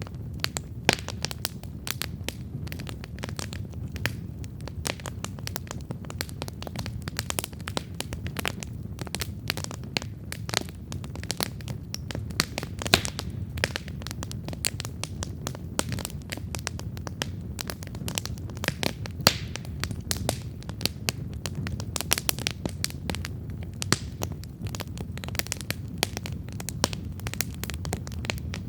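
Wood campfire burning and crackling, with dense irregular pops and snaps, a few sharper and louder than the rest, over a steady low rumble of the flames.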